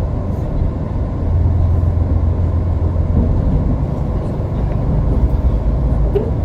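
Diesel limited express train running at speed: a steady, loud, low rumble.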